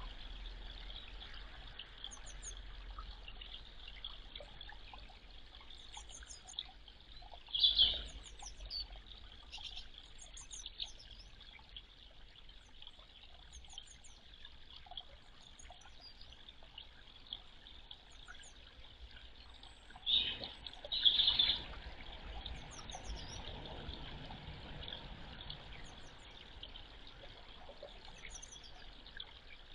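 Small birds calling in short high chirps, in groups of two or three every second or two, over a steady faint hiss. A louder brief sound stands out about 8 seconds in, and two more come close together around 20 seconds in.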